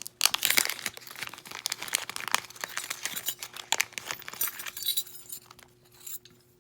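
Plastic bag crinkling and small metal jewellery components clinking together as they are handled, dying down about five seconds in.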